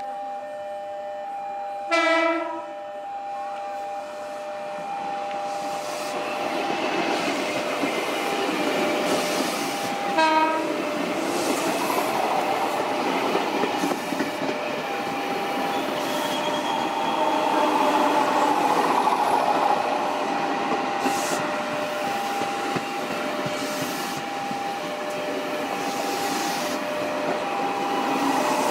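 KRL Commuterline electric commuter train sounding a short horn blast about two seconds in and a weaker one about ten seconds in, then running past close by with a loud rushing rumble and wheels clacking over the rail joints.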